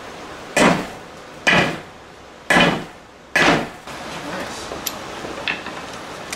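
Four heavy hammer blows on heated steel being forged, about one a second, each with a brief metallic ring.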